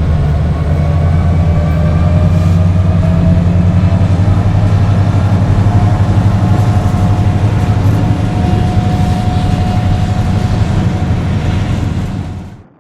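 Diesel locomotive engine running loud and steady, presumably a Canadian Pacific GP20C-ECO with its eight-cylinder EMD 710 engine, with a deep rumble. A faint whine rises slowly over the first half, then holds steady. The sound cuts off abruptly near the end.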